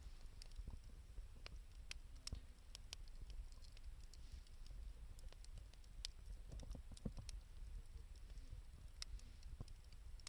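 Wood fire of 2×4 lumber and scavenged wood burning, crackling faintly with scattered sharp pops and ticks over a low steady rumble.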